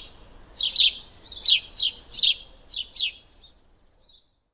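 A small bird chirping: a run of high, quick chirps, each sliding down in pitch, two or three a second, that stops about three seconds in, with a few faint notes after.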